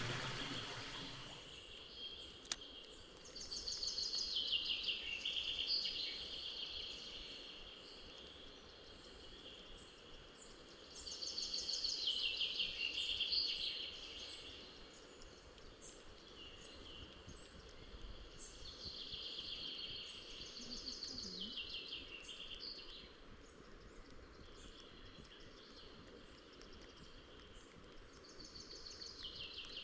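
A songbird singing a fast phrase of about two to three seconds that falls in pitch, repeated about every eight seconds, over a faint steady background hiss.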